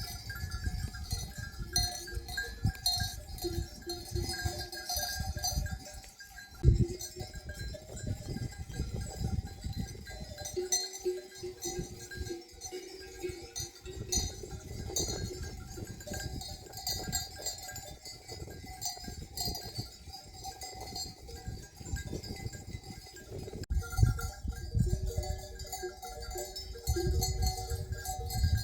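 A flock of sheep and goats bleating, with their neck bells clinking.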